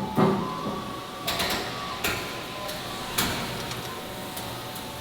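Four sharp knocks and clanks from factory work, the first ringing briefly, over a steady machine hum.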